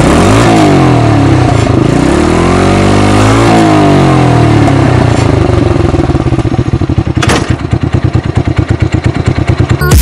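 ATV engine running through an exhaust with the rear silencer removed, revved down and back up, then settling into a lumpy, low-rpm run of separate exhaust pulses from about six seconds in, with one sharp exhaust pop near the seven-second mark.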